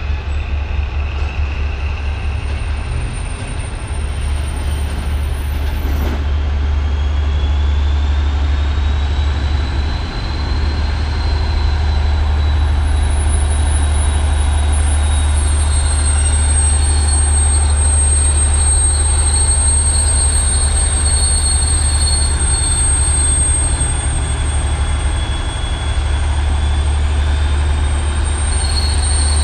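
Train running on the rails: a steady low rumble with a thin, high wheel squeal that wavers in pitch, growing a little louder over the first dozen seconds.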